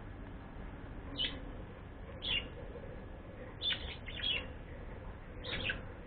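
A bird chirping: short, sharp calls that drop in pitch, about one a second, a few coming in quick pairs, over a steady background hiss.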